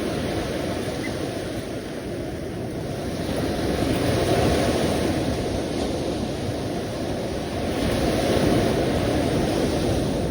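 Sea surf washing steadily, a deep rushing noise that swells with an incoming wave about four seconds in and again near the end.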